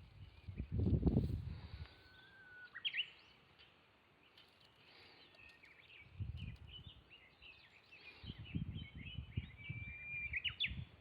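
Several wild birds singing and chirping, with a few held whistled notes among quick chirps. Low rumbling noise comes and goes: loudest about a second in, again around six seconds, and through the last few seconds.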